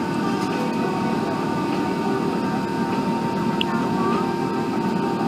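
Steady cabin noise inside an Airbus A380 airliner in flight: the even rush of airflow and engines, with a faint steady high whine.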